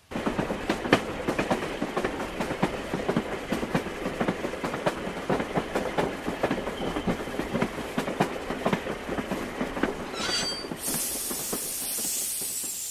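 Train sound effect: fast, irregular clickety-clack of wheels running over rail joints. About ten seconds in comes a brief high squeal, then a loud hiss of steam.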